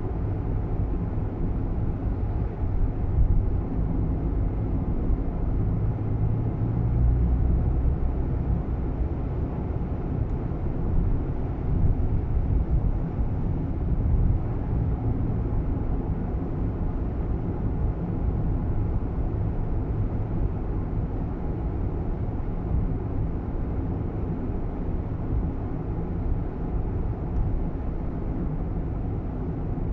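Cabin noise inside a Nissan Roox kei car on the move: a steady low drone of road and engine noise, with a few brief knocks.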